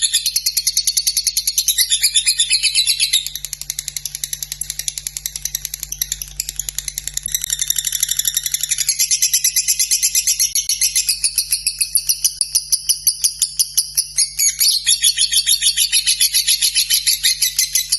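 Lovebird singing one long, unbroken, rapid high-pitched chattering trill, the 'ngekek' song prized by Indonesian bird keepers. It is softer for a few seconds near the start, then loud again.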